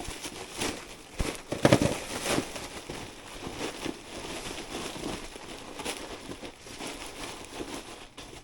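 Insulated flexible air duct being handled and fitted, its plastic jacket crinkling and rustling with irregular knocks.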